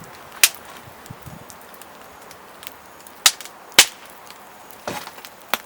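Wood fire in a small camping fire pit crackling, with about five sharp pops over a faint steady hiss.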